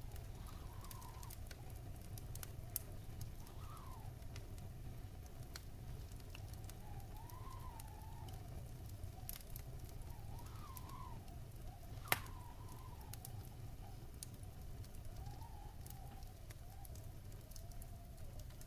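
Wood fire crackling in a fireplace: scattered small crackles over a low steady rumble, with one sharp pop about twelve seconds in. A faint whistling tone wavers slowly up and down throughout.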